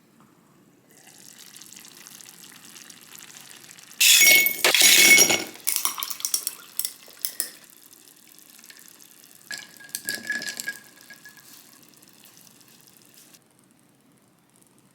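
Kitchen sounds: water running or pouring, with glass and dishes clinking. There are two louder rushes of water, about four seconds in and again about ten seconds in, and a scatter of clinks after the first.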